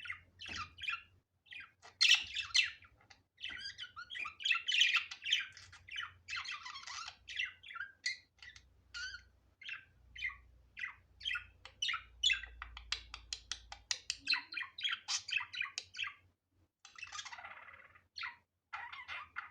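Budgerigar chirping and chattering: a fast run of short, high chirps, with a dense stretch of warbling chatter early on and a longer, harsher squawk near the end.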